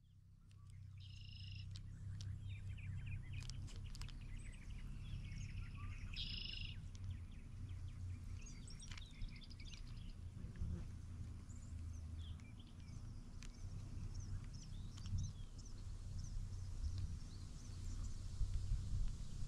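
Birds chirping and calling, scattered short chirps with two louder brief calls about a second in and again around six seconds in, over a steady low rumble.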